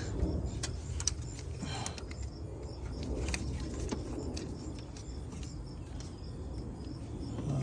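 Scattered light clicks and small rattles of hand work on a vacuum line in an engine bay, over a steady low hum.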